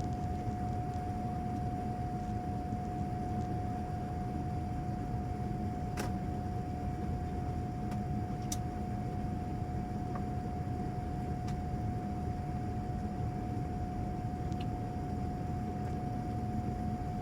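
Boeing 787-9 cabin noise during the climb after takeoff: a steady rush of engine and airflow noise with a constant whine held through it. Two faint clicks come about six and eight and a half seconds in.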